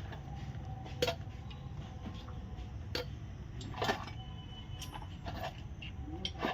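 A few sharp metallic clinks and knocks, spaced a second or two apart, from metal tools and parts being handled, over a steady low hum.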